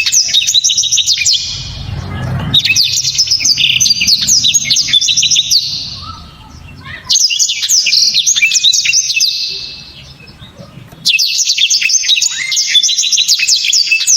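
Blackthroat (black-throated canary) singing loud, sharp, rapid trilled song phrases, four bursts of a few seconds each with short pauses between.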